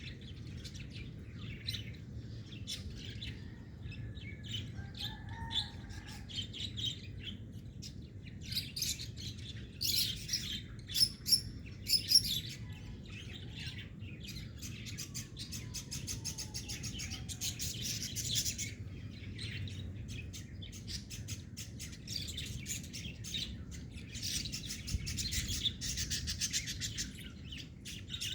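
Small pet birds chirping and twittering in rapid trains of short, high calls, with a few louder chirps about ten to twelve seconds in. A steady low hum lies underneath.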